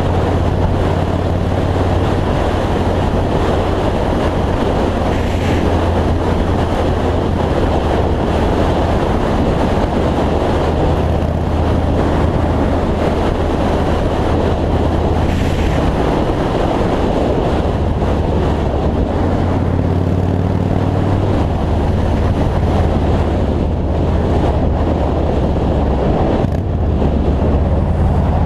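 2003 Yamaha Road Star's V-twin engine droning steadily at highway speed under heavy wind rush on the microphone. The engine note drops away briefly past the middle, then picks up again.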